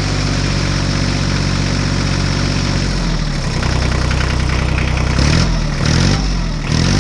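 Engine idling steadily, shifting pitch about three seconds in, then revved up and down three times near the end.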